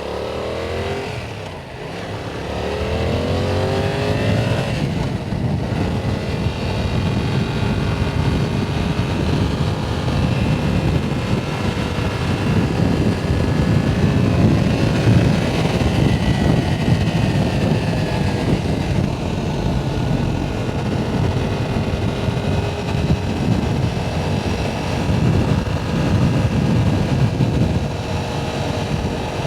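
Yamaha R7's parallel-twin engine accelerating, its pitch rising twice in the first few seconds as it pulls through the gears, then running steadily at cruising speed with only slight rises and falls, under heavy wind noise.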